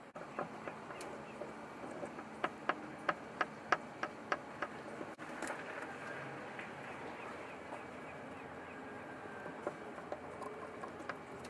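A run of light, sharp clicks and taps, about two or three a second for a few seconds, then quieter handling noise with a few scattered clicks.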